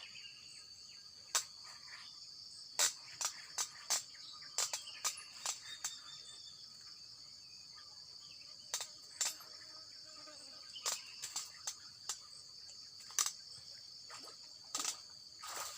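Insects, crickets or cicadas, chirring steadily at a high pitch, with irregular sharp clicks and taps scattered over it.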